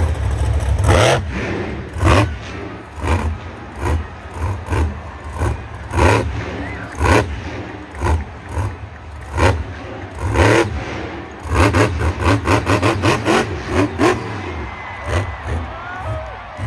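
Monster truck engine running hard with a heavy low rumble, broken by many sharp bangs and clattering impacts, with a quick run of them in the last third.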